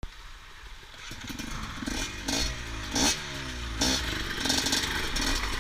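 KTM dirt bike engine revving, rising and falling in pitch with about three sharp throttle bursts, and growing louder from about a second in as the bike comes closer.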